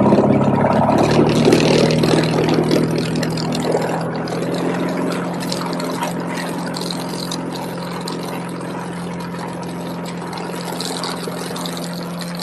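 Piper Comanche 250's six-cylinder Lycoming O-540 engine running steadily under a rushing air noise, the whole sound growing gradually quieter over the first several seconds and then holding steady.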